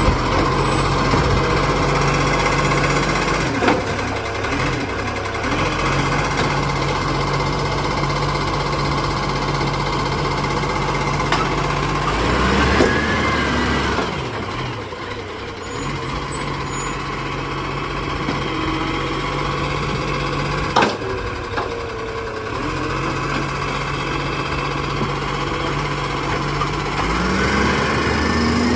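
Garbage truck running at close range, its engine steady and rising in pitch twice as it revs, with three sharp knocks spaced several seconds apart.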